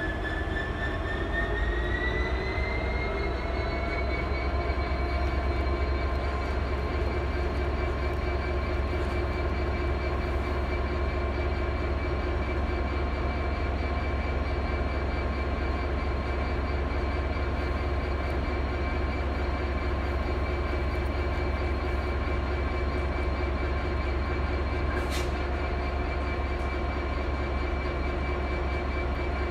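Diesel train running at or near the platform. Its engine whine rises in pitch for a couple of seconds about a second in, then holds a steady whine over a low rumble. A single short click sounds near the end.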